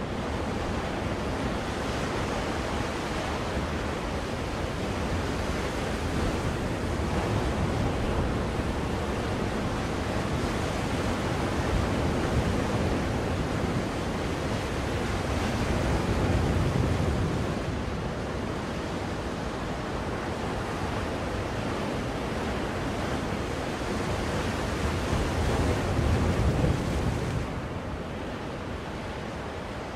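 Ocean surf used as soothing white noise: a continuous rush of breaking waves that swells and ebbs, with stronger surges about halfway through and again near the end.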